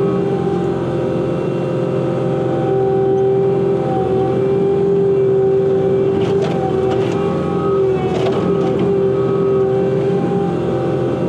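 Bobcat T86 compact track loader's diesel engine running steadily under load while its root grapple works a log pile, with a few short clatters of wood against the grapple about six and eight seconds in.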